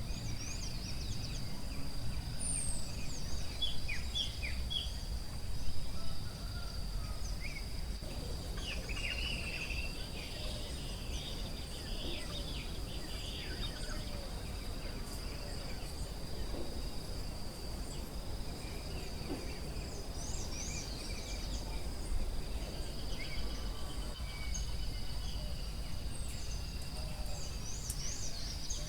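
Forest ambience: a steady high-pitched insect drone throughout, with many short bird chirps and calls scattered over it, above a steady low rumble.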